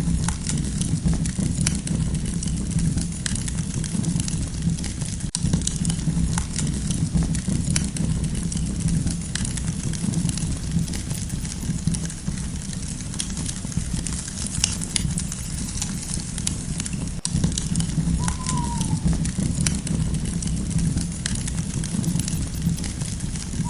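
Campfire crackling, with frequent sharp snaps and pops over a steady low rumble of burning wood. Late on, a single short call falls in pitch once, from a bird.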